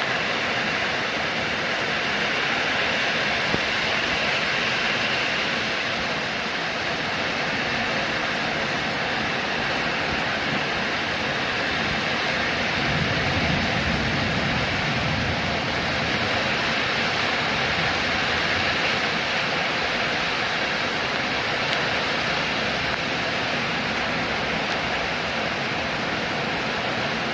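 Steady rain falling, a continuous even hiss. About halfway through, a low rumble swells up briefly and fades.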